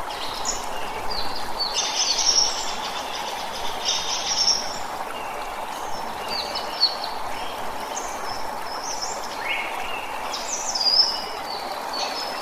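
Several birds chirping and calling in short, repeated phrases, many of them quick falling notes, over a steady background hiss.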